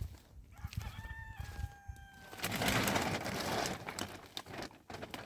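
A drawn-out call holding one pitch for about two seconds, stepping down slightly partway through. It is followed by a louder burst of rustling lasting about a second and a half, then a few light knocks.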